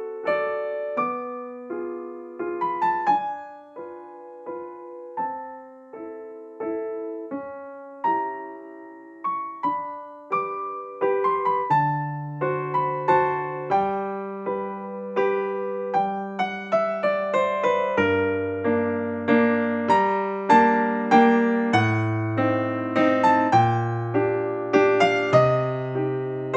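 Background piano music: a slow melody of single struck notes, with lower bass notes joining about halfway through.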